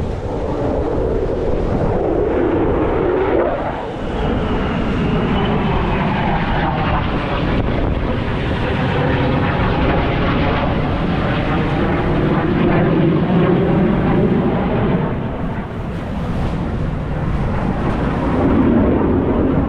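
Military fighter jet flying over, its jet engine noise loud and continuous, with slow sweeping shifts in pitch as it passes.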